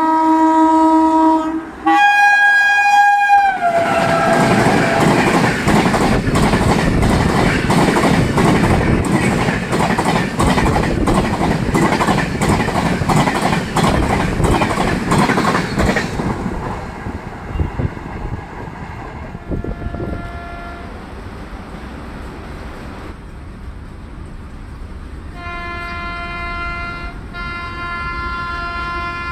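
Indian Railways WAP-7 electric locomotive sounding its horn as it passes at speed, the horn's pitch dropping about three seconds in. Then comes a loud rushing noise with a rapid clickety-clack of the Rajdhani coaches' wheels over rail joints, fading after about twelve seconds. Horn blasts follow twice more near the end.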